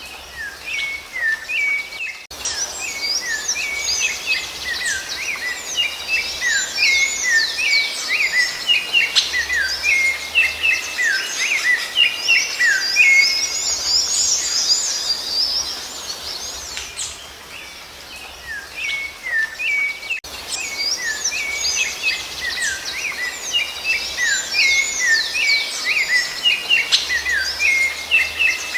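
Songbirds singing: a fast, unbroken chatter of short chirps and downward-sliding whistles, dipping quieter for a moment about two-thirds of the way through.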